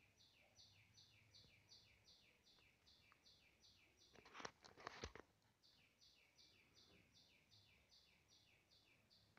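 Faint bird song: a fast, even run of two-note chirps, a high note then a lower one, about three pairs a second. It breaks off about four seconds in for a few sharp clicks, then resumes.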